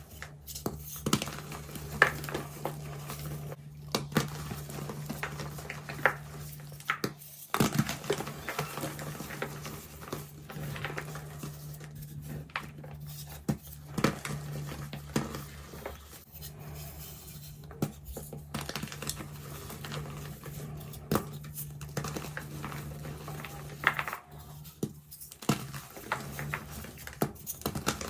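Reformed gym chalk being crushed and crumbled, giving many irregular sharp crunches and crackles. A steady low hum runs underneath.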